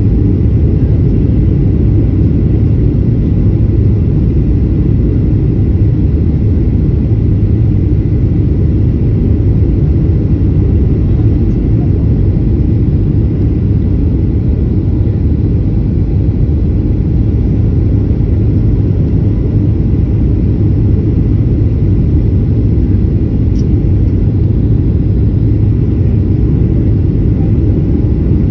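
Steady low rumble of a Boeing 737-800 in flight, heard from inside the cabin: engine and airflow noise that holds even throughout.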